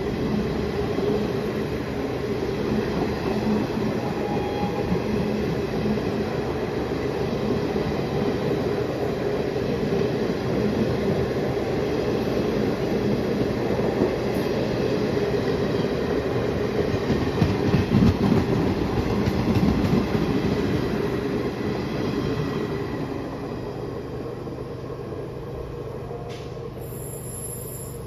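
Train running over the rails with a steady rumble. It grows loudest about two-thirds of the way through, then dies down over the last few seconds.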